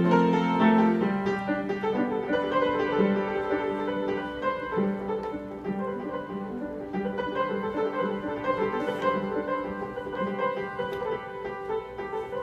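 Piano playing a slow instrumental passage of melody and chords, gradually growing softer.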